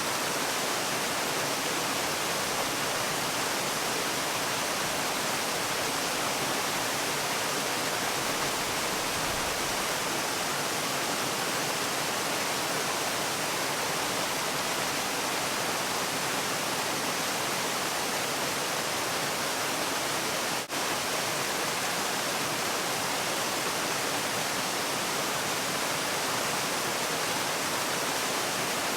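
Steady, even rush of falling water from a waterfall, with a momentary dropout about two-thirds of the way through.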